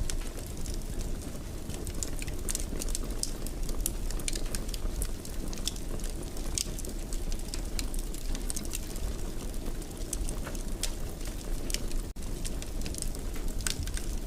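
Wood fire burning in a fireplace: a steady low rumble with irregular sharp crackles and pops, cut by a split-second dropout about twelve seconds in.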